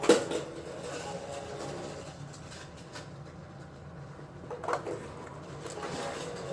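Battery-powered VTech toy train running around its plastic track with a steady hum, a sharp knock right at the start and a short louder burst of sound about four and a half seconds in.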